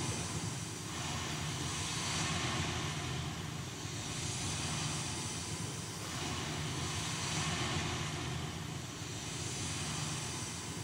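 A sustained storm-like wash of noise from the band's performance, swelling and fading about every four seconds over a steady low hum.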